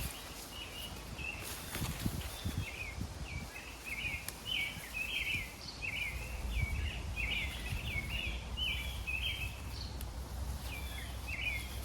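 A songbird chirping over and over in quick, short notes, with a low rumble underneath and a few soft knocks.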